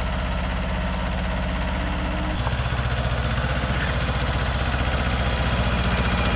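Old Yanmar compact diesel tractor running a PTO-driven rotary tiller through garden soil. The steady engine note drops to a lower pitch about two and a half seconds in as the load changes.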